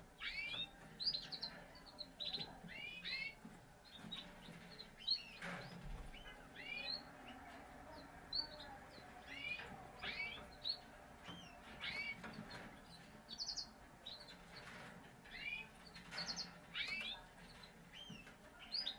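Parisian Frill canaries giving short chirping calls, one or two a second, each a quick falling note. A soft thump comes about six seconds in.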